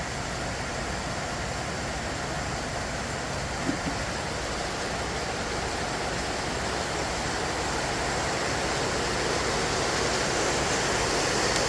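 Steady rain falling, its hiss growing slightly louder towards the end.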